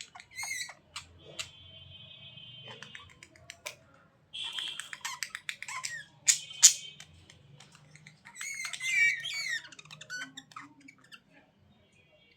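Budgerigars chirping and warbling in short bursts, with a longer run of quick, wavering chirps near the end. Two loud, sharp clicks come in the middle.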